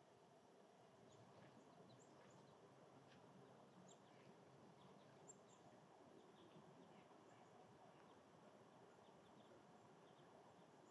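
Near silence: faint outdoor ambience with scattered faint, short, high bird chirps.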